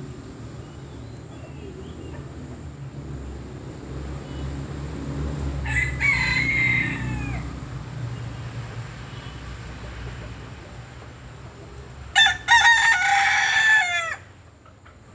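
Rooster crowing twice: a fainter call about six seconds in, then a louder, longer crow near the end, each dropping in pitch as it ends. A low rumble runs underneath and swells mid-way.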